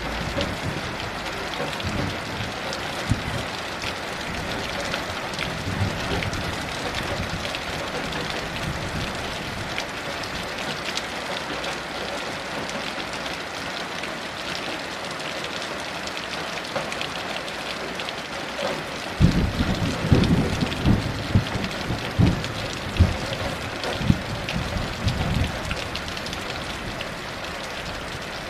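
Heavy rain pattering steadily. About two-thirds of the way through, a clap of thunder breaks in and rumbles low for several seconds with a few sharp cracks, then fades back under the rain.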